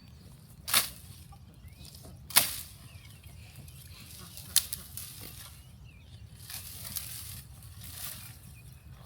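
Three sharp impacts, the first two about a second and a half apart and the third about two seconds later, over a steady low rumble.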